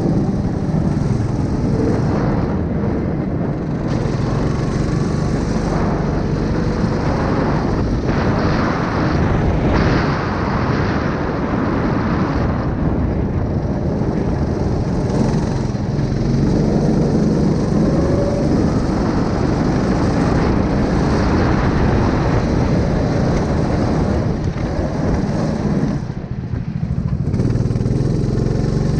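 A 9 hp small engine running steadily, with a brief drop in level near the end.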